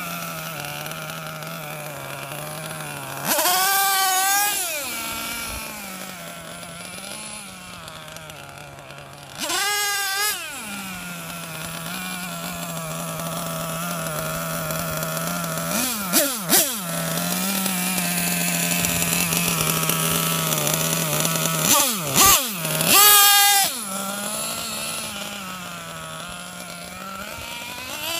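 Two-stroke gas engine of a Losi XXL-2 RC monster truck idling steadily, with four quick throttle blips that rev it up and let it drop back to idle. The last and loudest comes near the end.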